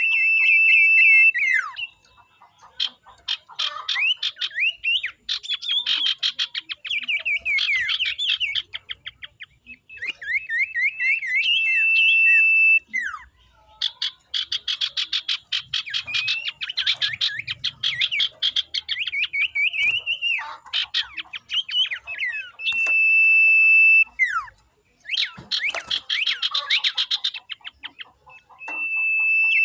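Common iora (sirtu) calling: bursts of rapid, dense chattering notes alternating with long, level whistled notes, several seconds at a time with short pauses between.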